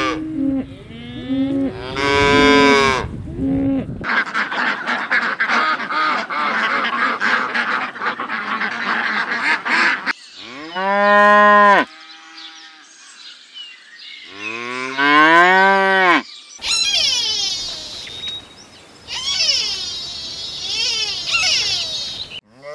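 A string of farm animal calls: cattle mooing in long, drawn-out calls, one rising in pitch, mixed with geese honking and higher chattering calls.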